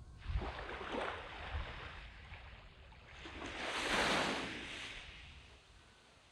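Sea waves breaking and washing up a sand beach: a smaller wash about half a second in, then a bigger wave that swells to its peak about four seconds in and fades away.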